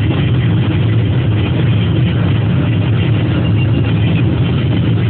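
Steady road and engine noise inside a car's cabin at speed, a constant low rumble with tyre hiss.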